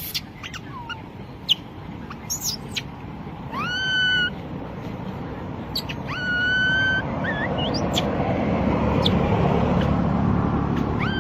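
Baby monkey crying: three long high-pitched cries that rise and then hold steady, the last near the end, with short squeaks between them. A low rushing noise swells in the background in the second half.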